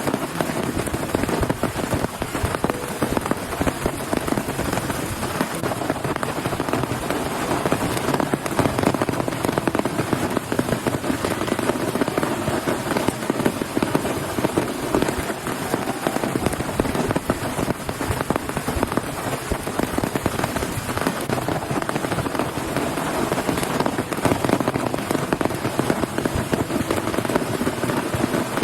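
Heavy rain falling steadily: a dense patter of drops striking a surface.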